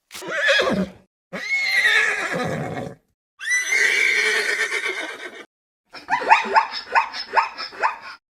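Animal calls: three separate drawn-out cries with brief silences between them, then, about six seconds in, a fast run of short rising calls.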